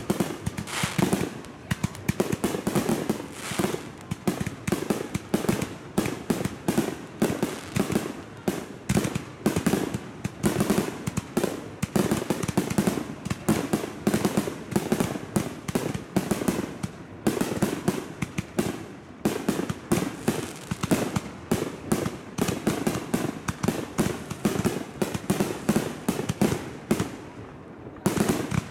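Aerial fireworks shells bursting overhead in a rapid, continuous barrage of bangs and crackles, several a second, with a short lull near the end.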